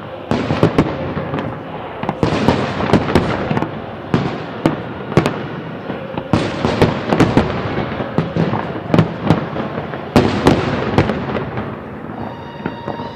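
Fireworks display: many sharp bangs of aerial shells in quick, irregular succession over a continuous crackle and rumble, thinning out and quietening about a second before the end.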